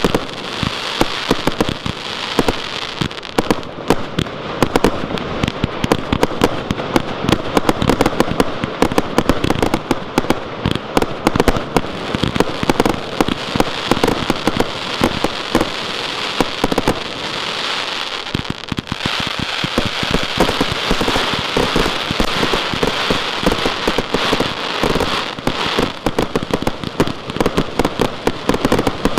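Transbomber Champion Edition firework going off: a dense, continuous crackling of rapid pops and bangs, with a brief lull about 19 seconds in.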